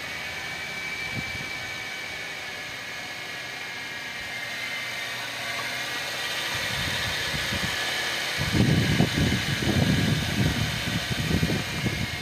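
Hyundai SUV's engine running just after being started on a newly fitted battery: a steady mechanical whir with a faint high whine. From about eight seconds in, irregular low rumbles and thumps come in over it.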